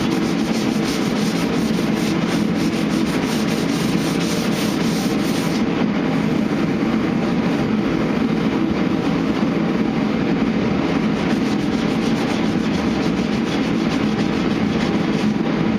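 Sandpaper on a sanding block rubbing steadily over body filler on a truck body panel, a continuous scratchy sanding noise.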